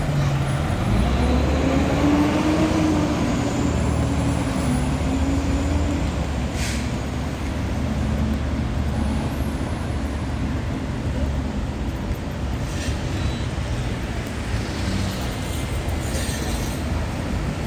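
Fire truck's diesel engine running under load, its pitch rising over the first few seconds and then holding steady as the truck moves. A brief hiss of air about seven seconds in.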